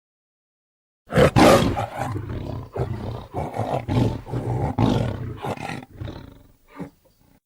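Smilodon (sabre-toothed cat) roar sound effect: a loud, rough big-cat roar starts about a second in and goes on as a string of short, pulsing growls for about five seconds, with one brief final snarl near the end.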